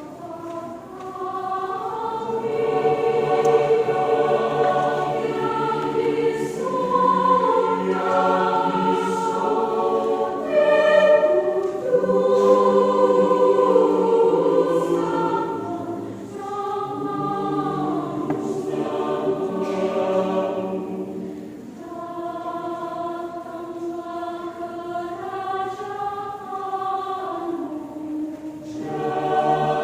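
A church choir singing in several parts, with held notes. It comes in softly and swells to full voice within the first couple of seconds.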